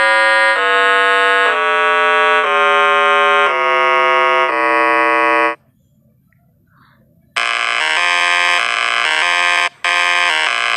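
Electronic buzzer tones: a run of about eight held notes, each roughly half a second to a second long, stepping up and down in pitch. After a pause of about two seconds comes a harsher long buzz, broken once briefly.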